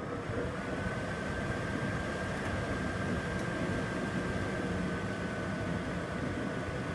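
Microwave oven running: a steady hum and fan noise with a whine that rises slightly in pitch during the first second, then holds steady.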